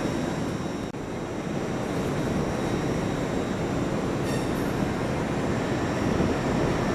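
A train running through a station: a steady rumble with a faint high whine, and a short click about four seconds in.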